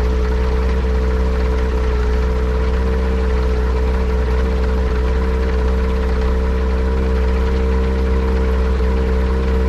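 Yamaha Apex four-cylinder four-stroke engine on a Kitfox airplane running at a steady speed, an even unchanging drone. It is being run to chase a misfire that the owner suspects comes from a vacuum leak.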